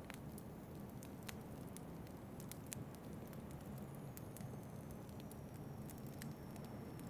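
Fireplace crackling with irregular sharp pops over a low steady rumble of wind. A faint thin high whistle comes in about four seconds in and drifts slightly lower.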